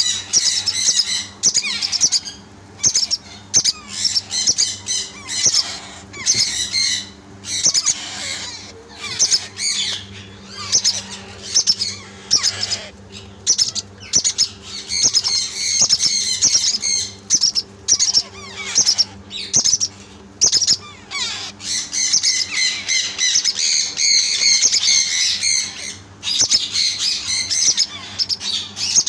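Alexandrine parakeet (Kashmiri Raw) chicks squawking, harsh calls repeated almost without pause with only brief gaps.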